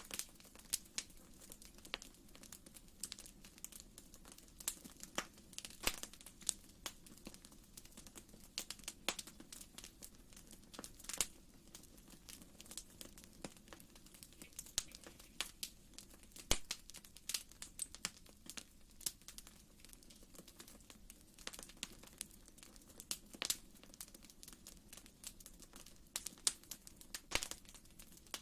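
Wood fire burning in a fireplace, crackling with irregular sharp pops and snaps, several a second, over a faint steady low rumble.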